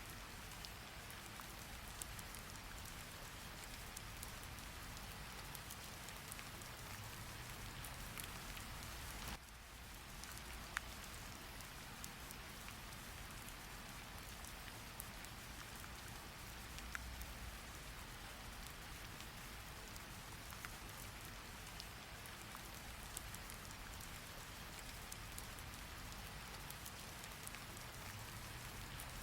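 Steady rain, an even hiss of falling rain that dips briefly about nine seconds in, with a few faint scattered clicks.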